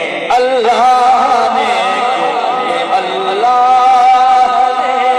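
A man singing a naat unaccompanied, holding long drawn-out notes with a wavering vibrato and sliding to a new note about halfway through.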